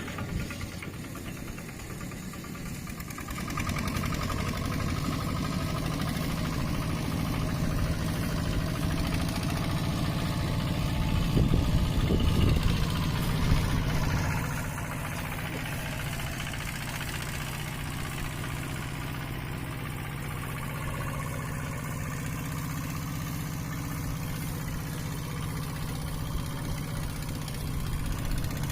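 Mini tractor engine running, getting louder a few seconds in and loudest for a few seconds past the middle, then dropping back to a steady, lower run.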